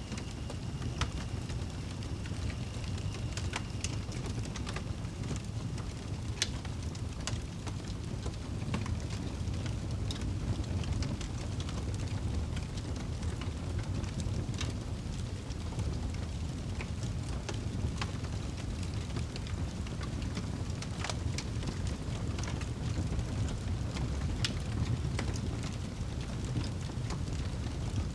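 Wood fire crackling in a fireplace: a steady low rumble of the burning fire with irregular sharp pops and snaps every second or two.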